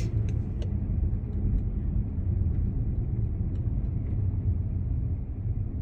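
Car cabin noise while driving slowly: a steady low rumble of engine and tyres, with a few faint ticks.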